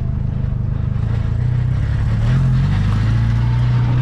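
MG Midget's 1275cc four-cylinder A-series engine running while the car drives along, with road and wind noise. A little over two seconds in, the engine note shifts to a new, steady pitch.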